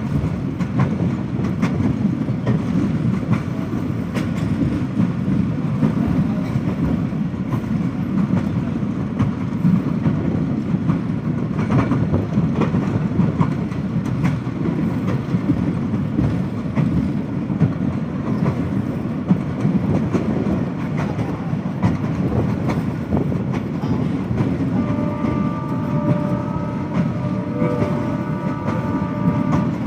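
Diesel-hauled passenger train running along the track: a steady rumble with the wheels clicking over rail joints. A steady tone of several notes together joins for the last five seconds or so.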